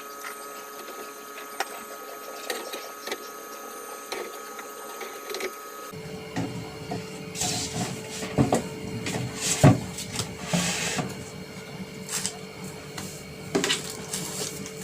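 Plastic containers and food packets being handled and set into a refrigerator: light clicks and knocks with short rustles, over a steady hum. The first few seconds hold mostly the hum; the clatter starts about six seconds in.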